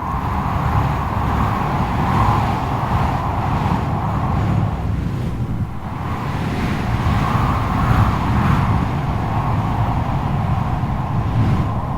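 Strong wind howling: a wavering whistle over a deep, gusting rumble that swells and eases.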